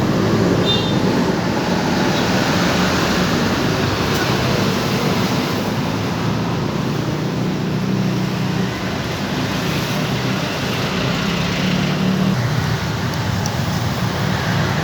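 Monkey bike engine running steadily, with a broad rushing noise over it.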